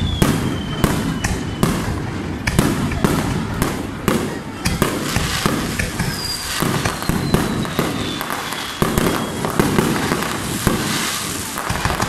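Fireworks display: a rapid run of shell bursts and crackling over a low rumble. A long whistle falls slowly in pitch near the start and again from about six seconds in.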